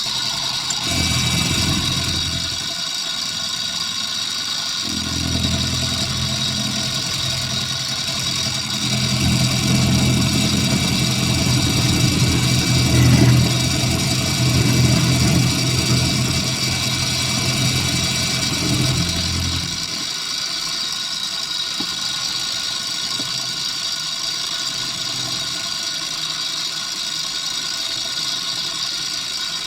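A metalworking machine tool running with a steady high whine, and a heavier low hum from about five seconds in until about twenty seconds, when it drops away.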